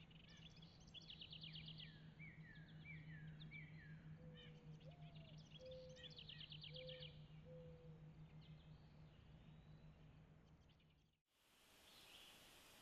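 Faint songbirds singing repeated trills and short falling notes, with a dove cooing five low notes, the second one rising, and a steady low hum beneath. About eleven seconds in, the sound cuts off abruptly and is replaced by a steady hiss.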